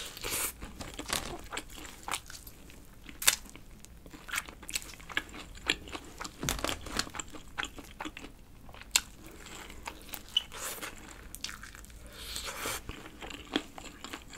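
Biting and chewing crispy sauced fried chicken wings close to the microphone: irregular crunches and crackles of the fried coating, the sharpest one about three seconds in, with quieter chewing between.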